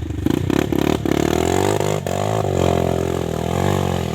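A KTM dirt bike's engine revving hard as it climbs: choppy at first, rising in pitch for about a second, a brief break, then held high with a dip and easing off near the end.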